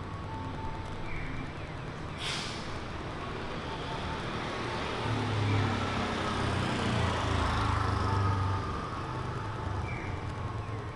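A motor vehicle drives past on the street, its low engine sound rising to its loudest around the middle and then fading. There is a brief sharp hiss about two seconds in.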